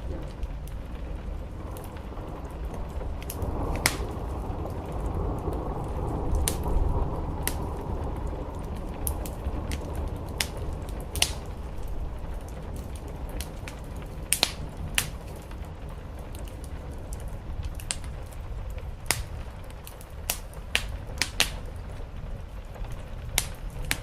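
Wood fire crackling, with sharp, irregular pops, over the steady low rush of rain on a roof, which swells and fades in the first half.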